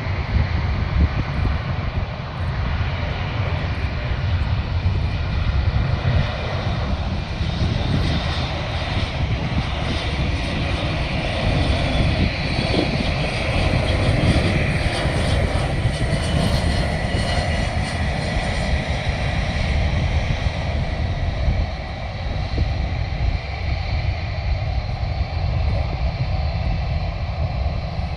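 Airplane engines running, a continuous heavy rumble with a faint high whine, fullest around the middle and easing off toward the end.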